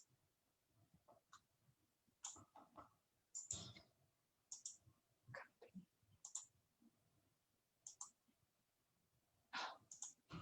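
Faint computer mouse clicks and keyboard taps, a dozen or so short clicks at irregular intervals, with a small cluster near the end.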